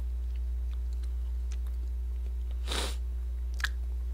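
A man eating cake, with faint chewing and mouth noises over a steady low electrical hum, a short breathy puff through the nose about three seconds in, and a small click just after.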